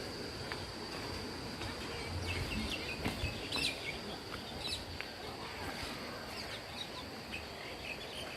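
Outdoor ambience with small birds chirping in short calls, most of them in the middle part, over a steady high-pitched whine and low background rumble.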